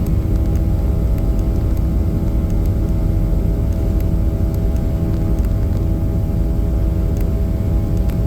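Boeing 737-800's CFM56-7 turbofan engines running during takeoff, heard from inside the cabin: a steady, loud low rumble with a few steady humming tones over it and faint scattered ticks.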